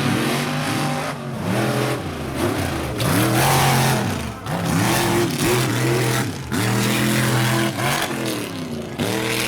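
Mega truck's engine revving hard, its pitch climbing and dropping again and again as the throttle is worked on and off.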